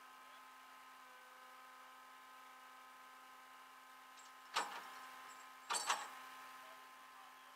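A sharp knock, then a quick double knock about a second later, over a faint steady hum.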